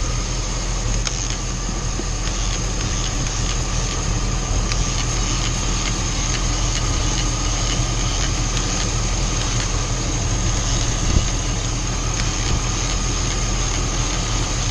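V8 engine idling steadily under the hood, with a few faint clicks and one sharper tick about eleven seconds in. The engine is being checked for a random misfire (P0300) by misting its ignition parts with water to make leaking spark snap.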